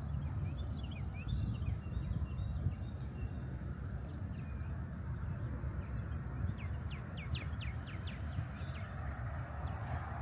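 Birds chirping in short, scattered calls, with a quick run of about eight short notes in the later part. A steady low rumble underlies it.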